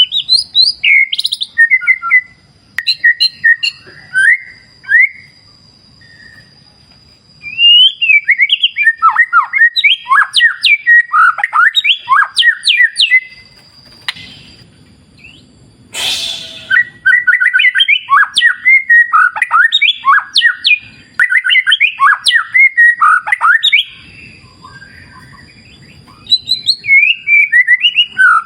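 White-rumped shama (murai batu) singing: fast, varied whistled phrases of rising and falling notes, delivered in bursts of several seconds with short pauses between. A single sharp click sounds about halfway through.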